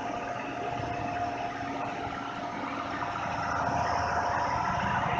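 Heavy haulage truck engine running steadily, with a steady mid-pitched whine over the engine noise.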